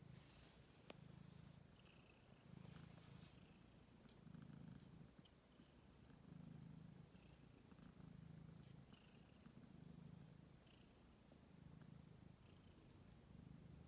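Cat purring, a quiet low purr that swells and fades about once a second with each breath. Faint short high squeaks come now and then, and there is a single sharp click about a second in.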